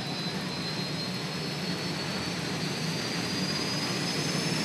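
Pulling tractor's engine running hard under load as it drags the sled, with a thin high whine slowly rising in pitch and the sound slowly getting louder.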